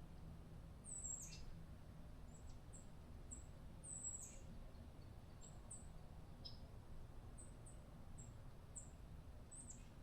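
Faint, scattered small-bird chirps: short high calls, some sliding down in pitch, irregularly spaced, the loudest about a second in and about four seconds in, over a faint low rumble.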